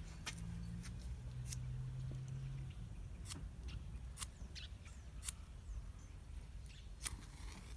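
Scattered short sharp clicks, about seven of them at irregular intervals, over a steady low hum that stops about two and a half seconds in.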